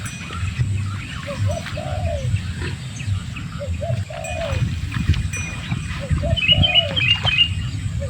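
A dove cooing a repeated phrase, a short note followed by a longer arched coo, roughly every second and a half, over a low steady rumble. A small bird chirps a few quick high notes near the end.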